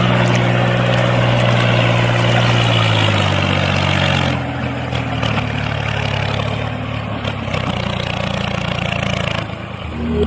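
Small motor of a handmade toy tractor running steadily with a buzzing whir. Its pitch drops slightly about three seconds in, and the whir grows quieter and duller at about four seconds.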